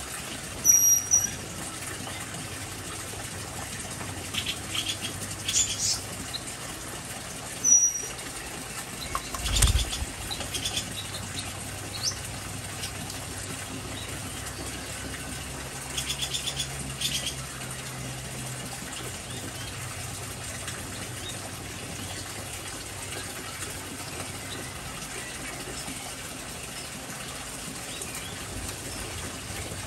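Aviary birds give short high chirps now and then, with a sharp high whistled note about a second in and again near eight seconds, and bursts of chirps around ten and sixteen seconds. A soft thump comes about ten seconds in. Under it all runs a steady hiss of water.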